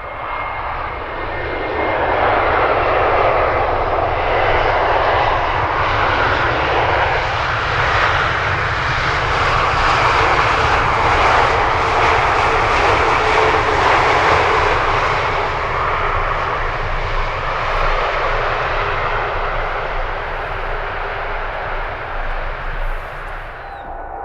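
Jet airliner's engines passing by: a loud rush of engine noise that swells over the first couple of seconds, holds through the middle, eases toward the end and then cuts off.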